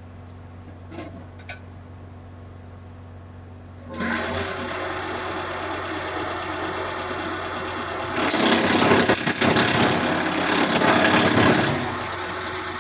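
A wood chipper's engine starts suddenly about four seconds in and runs steadily. From about eight seconds to near twelve a louder, rougher noise rises over it, then falls back to the steady running.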